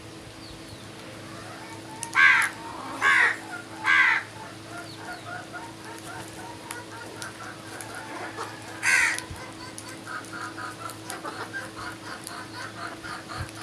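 A crow cawing: three harsh caws in quick succession about two seconds in, and one more near nine seconds. Faint, rapid chattering calls of other birds go on in the background.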